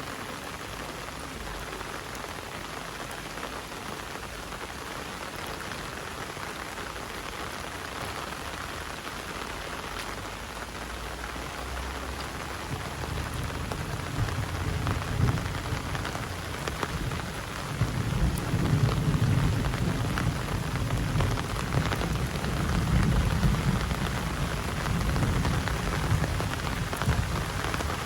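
Heavy rain falling steadily on surfaces. From about halfway through, a deep rumble builds and grows louder over the last third.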